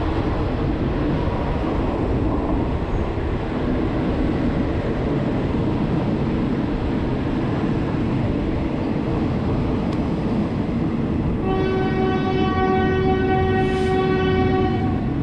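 Train running along the track with a steady rumble, and its horn sounding one held note for about three seconds near the end.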